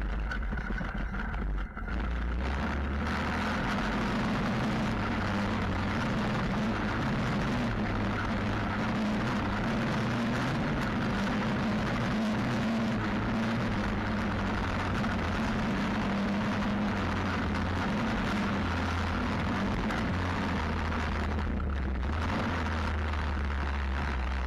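Stomp WPB 125 pit bike's single-cylinder four-stroke engine running steadily under way, with wind rushing over the microphone. The engine picks up about two to three seconds in.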